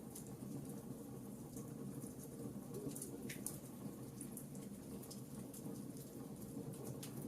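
Campfire crackling: irregular sharp pops and snaps scattered over a steady low rumble of burning wood.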